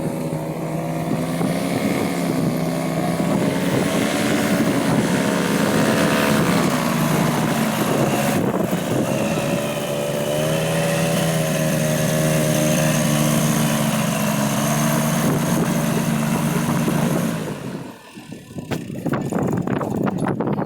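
Paramotor engine and propeller running with a steady drone, the pitch wavering a little. It stops abruptly about three seconds before the end, followed by a run of short knocks and rustles.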